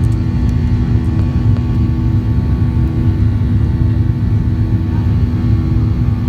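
Airliner cabin noise during takeoff: the jet engines and airflow make a loud, steady, low rumble with a few faint steady tones running through it.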